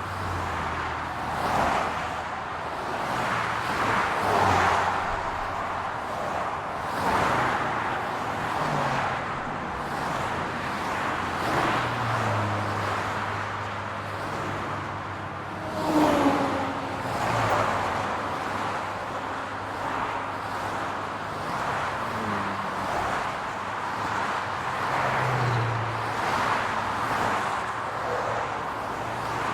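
City road traffic: a steady hum of tyres and engines as cars pass one after another, swelling and fading every few seconds. A louder vehicle goes by about halfway through, its pitch falling as it passes.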